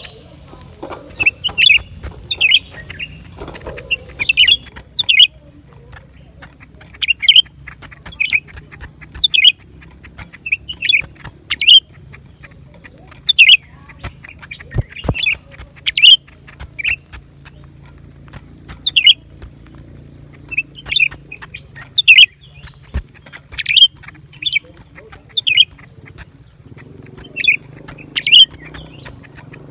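Blue-winged leafbird calling: a long run of short, sharp, high notes, repeated every half second to a second, often in pairs or small clusters.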